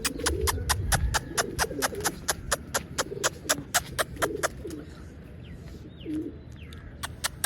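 Domestic pigeons cooing softly in a loft, with a fast series of sharp clicks, about four a second, through the first half and a few more near the end.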